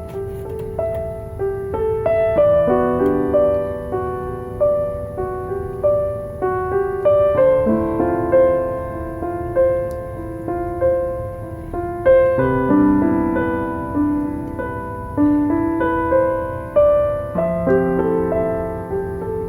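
Slow, gentle solo piano music, single notes and soft chords struck one after another and left to fade, over a faint low steady noise.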